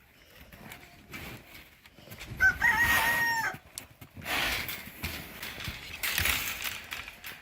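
A rooster crows once, a call of about a second that falls off at the end, about two and a half seconds in. After it come footsteps crunching through snow with a hard ice crust on top.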